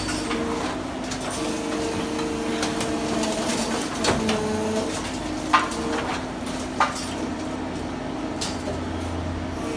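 Brokk remote-controlled demolition machine running with a steady hydraulic hum, with a few sharp knocks and clanks of demolition work, the loudest about four, five and a half and seven seconds in.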